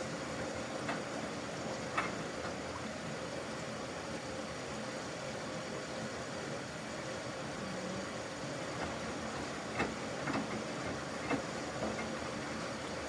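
Samsung washing machine running on a normal cycle: a steady hiss and hum with a few light clicks and knocks from inside the machine.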